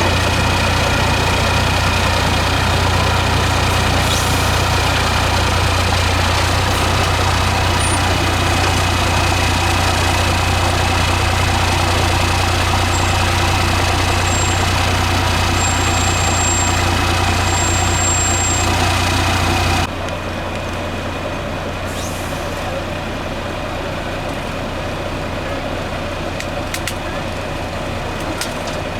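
Diesel engine of a 6x6 MAN trial truck running steadily at low revs, with a deep even hum. The level drops suddenly about two-thirds of the way through.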